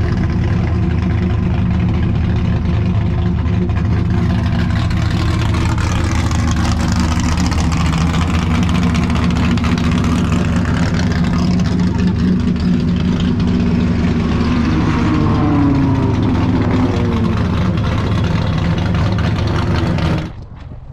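Racing car engine running loud and steady. A few rising and falling changes in pitch come about two-thirds of the way in, and the sound cuts off abruptly just before the end.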